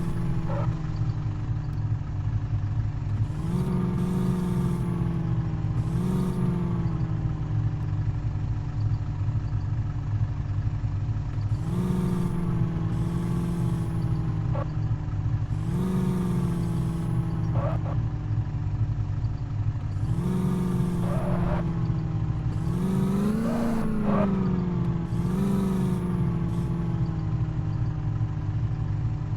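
Truck engine running steadily, its pitch jumping up sharply and then sinking slowly about eight times as the throttle is pressed and eased, each rise with a short hiss.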